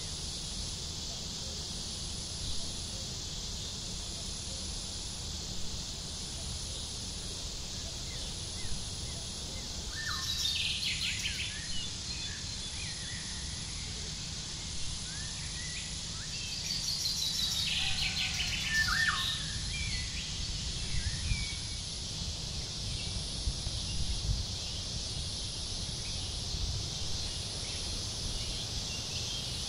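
Steady high-pitched insect chorus, with a bird calling in two bouts of chirps, one about ten seconds in and another from about sixteen to twenty seconds in.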